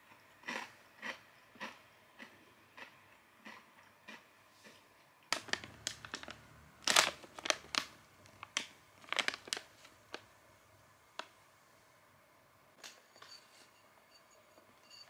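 Crunchy chewing of sev (crisp fried gram-flour noodles), a crunch about every half second that fades, then a louder, denser crackling of a plastic snack bag being handled for about five seconds.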